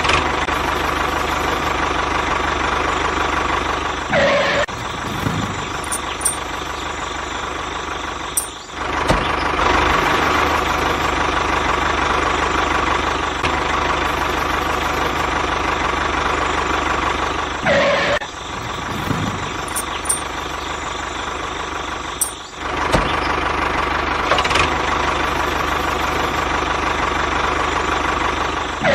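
Tractor engine running steadily, dipping briefly several times and picking up again.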